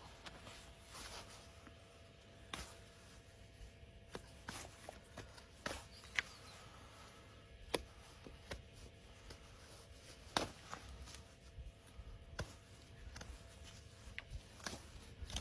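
Hoof-trimming work on a horse's hoof: irregular short scrapes and sharp clicks of tools against the hoof, a few seconds apart.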